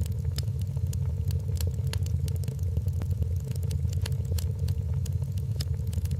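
Wood fire crackling in a fireplace: scattered sharp pops and snaps over a steady low rumble, with a faint steady hum.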